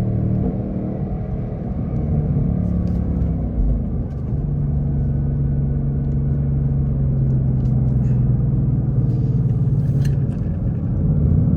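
2024 Ford Mustang GT's 5.0-litre Coyote V8 with active exhaust running on the move. The engine note changes pitch about three to four seconds in, holds steady for several seconds, then climbs and gets louder near the end.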